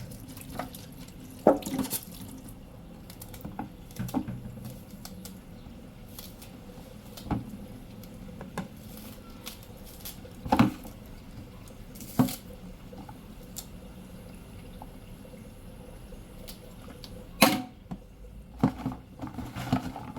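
Kitchen sink sounds: water running and dripping, with scattered clinks and knocks of things being handled at the sink, the loudest about halfway through and near the end.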